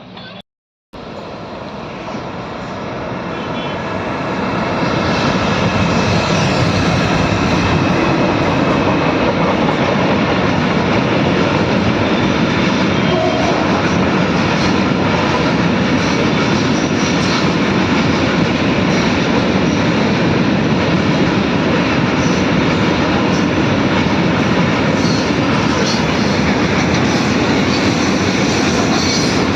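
Train running on the rails, a dense steady rumble and rattle that grows louder over the first few seconds and then holds steady.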